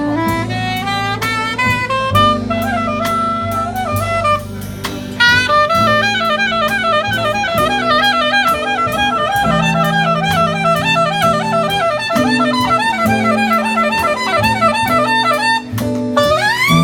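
Soprano saxophone playing quick runs of notes over a jazz band, with a steady bass line and drums. Near the end a line slides upward into a held note.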